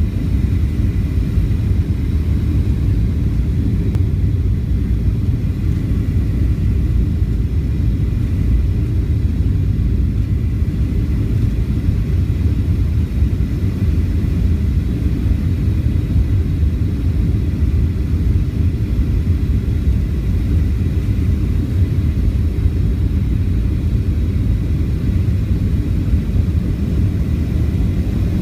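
Steady cabin noise of a Boeing 737-800 in flight on approach: a constant low rumble of its CFM56 engines and airflow, with a faint high whine held underneath.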